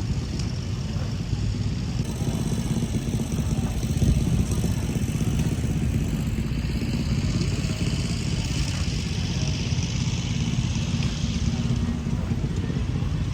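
A small engine running steadily with an even, pulsing rumble, with faint voices behind it.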